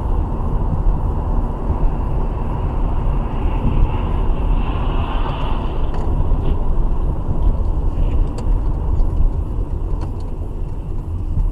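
Car in motion: a steady low rumble of engine and road noise.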